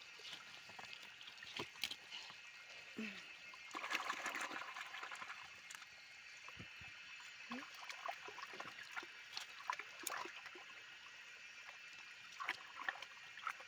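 Shallow stream water trickling steadily, with scattered small splashes and knocks, busier and louder for about a second around four seconds in.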